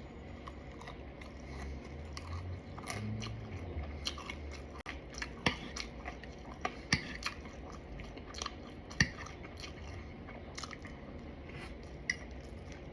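A person chewing fried shrimp close to the microphone, with scattered crisp crunches and clicks, the loudest about nine seconds in.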